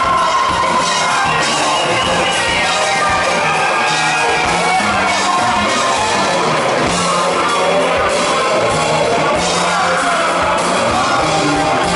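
Rock band playing live in a large hall: drums, guitars and a singer's voice, with the crowd yelling and whooping along.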